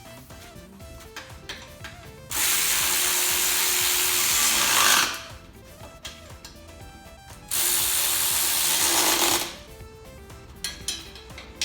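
A handheld power tool run twice, for about two and a half seconds and then about two seconds, its motor note dropping as it winds down each time, over background music.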